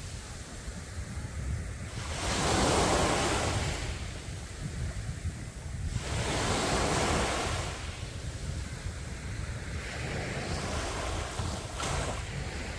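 Sea waves breaking on the shore, three swells of surf about four seconds apart, over a steady low rumble of wind on the microphone.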